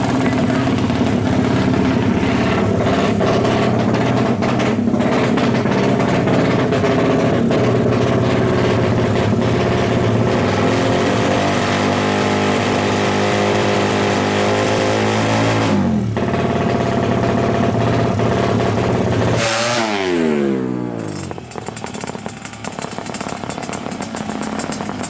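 Yamaha RX-King's single-cylinder two-stroke engine running at high revs, its pitch shifting up and down for a long stretch. Near the end it gives a short loud burst, then the revs fall away quickly and it runs quieter.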